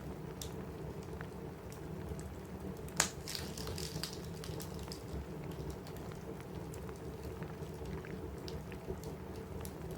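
Steady rain pattering on a cabin roof, with a wood fire crackling: scattered sharp clicks and one loud pop about three seconds in, followed by a brief run of crackles.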